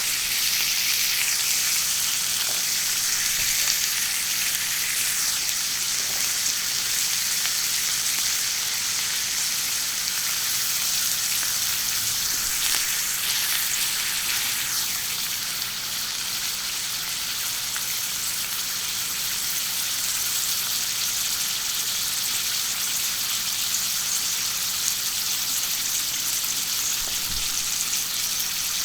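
Food sizzling steadily on a hot, extra-thick iron griddle plate over a charcoal grill, a continuous high hiss.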